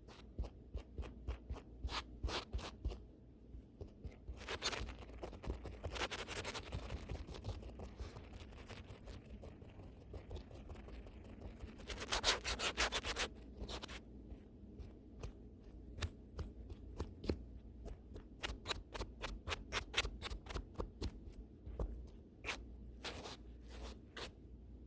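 Brush bristles swept fast and hard over the camera and its microphone, making quick scratchy strokes. Two denser runs of brushing come about a third of the way in and near the middle.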